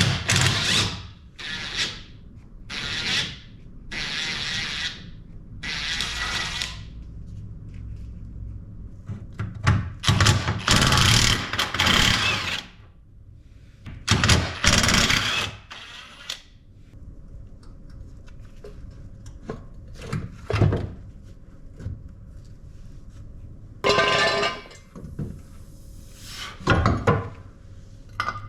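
A power tool run in repeated short bursts, about a dozen, most under a second and three lasting a second or two, while front lower control arm hardware is being removed.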